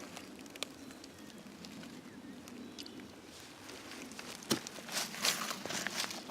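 Quiet outdoor background with a few small clicks, then about four and a half seconds in, a run of rustling and crackling from leaves and undergrowth being disturbed.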